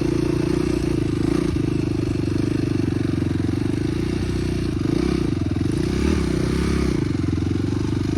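Dirt bike engine running at low revs, with its pitch dipping and rising slightly about five to seven seconds in.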